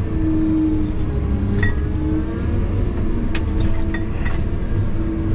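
Logging machine's diesel engine running steadily, its pitch wavering slightly, with a few sharp metallic clinks.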